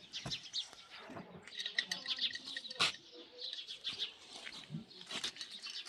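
Small birds chirping, with a few sharp clicks, the loudest a little under three seconds in.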